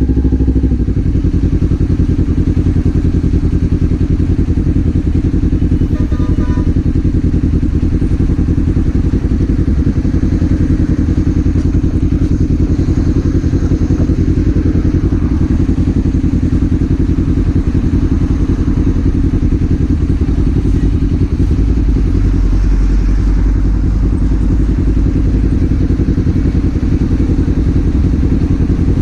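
Kawasaki Z400's 399 cc parallel-twin engine running steadily under a rider on the move, heard from the rider's point of view. The low end gets heavier from about 22 seconds in.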